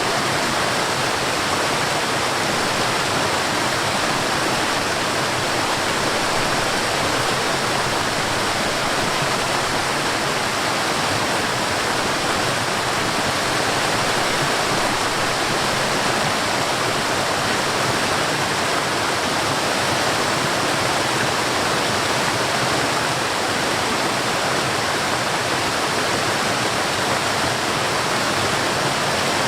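Forest waterfall: a steady rush of falling water, even and unbroken.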